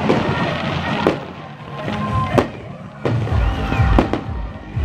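Aerial firework shells bursting, a string of sharp bangs about a second apart with crackling between them. The loudest bang comes about two and a half seconds in.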